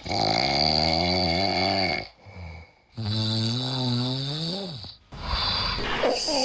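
Sleeping dog snoring: two long snores of about two seconds each with a short pause between, then a shorter, wavering sound about five seconds in.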